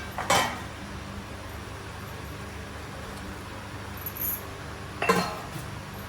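Kitchenware clinking twice, about five seconds apart, as marinated chicken is tipped into the cooking pot, over a steady low hum.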